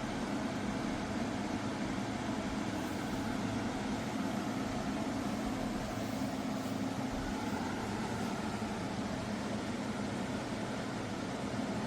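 Portable air conditioner running: a steady rush of fan air over a constant low hum.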